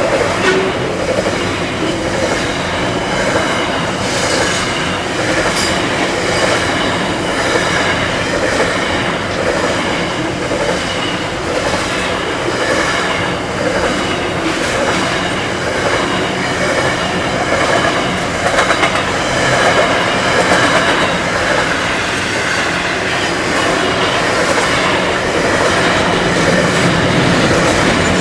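Freight train wagons rolling past on steel rails: a steady loud rumble with repeated clickety-clack of wheels over rail joints.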